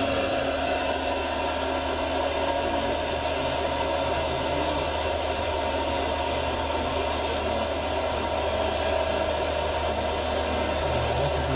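Radio-controlled model construction machinery running steadily: a whine of small electric motors and gearing over a low, even hum.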